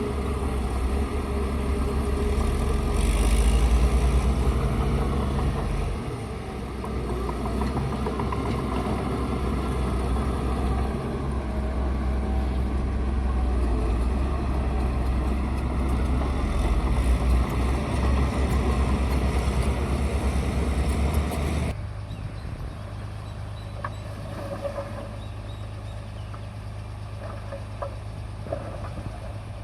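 Bulldozer's diesel engine running hard, its loudness swelling and easing, then dropping suddenly about three quarters of the way through to a quieter steady hum.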